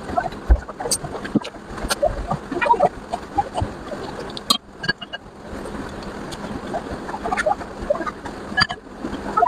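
Close-miked eating sounds: wet chewing and lip-smacking of curry and rice, with many small clicks and pops and a few soft low thumps.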